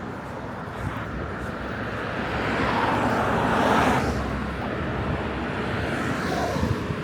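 A vehicle passing by on the street, its noise swelling to a peak about four seconds in and then fading, over a steady low traffic rumble.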